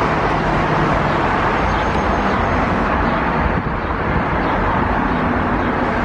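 Steady traffic noise from a busy street well below, a continuous wash of road sound.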